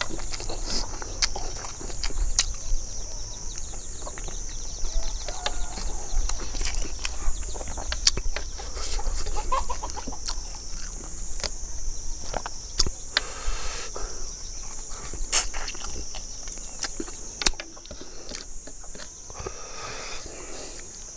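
Close-up mouth sounds of a man eating rice and roasted chicken by hand: wet chewing and lip smacking in many short clicks, over a steady high-pitched drone.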